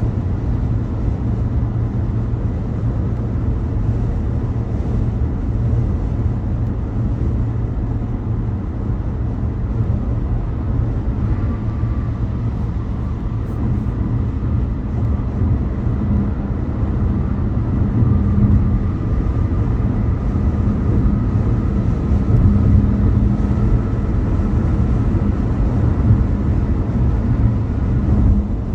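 Car driving at speed on a highway: steady low road and tyre noise. A faint steady whine joins about a third of the way through.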